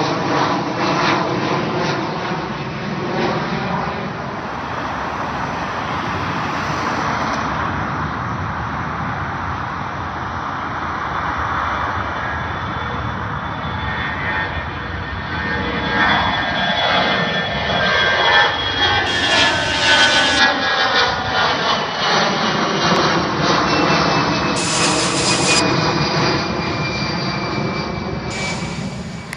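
Jet airliner passing low overhead at full takeoff power, a continuous engine noise that swells to its loudest about two-thirds of the way through. A high whine slowly falls in pitch as it goes over.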